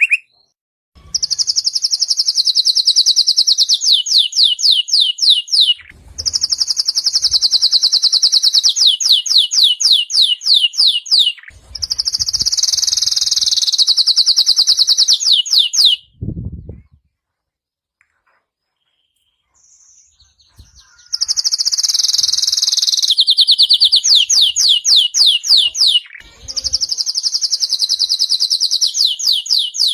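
Domestic canary singing: five long phrases of high, bright song, each ending in a fast falling trill, with a pause of a few seconds just past the middle. A brief low thump sounds at the start of that pause.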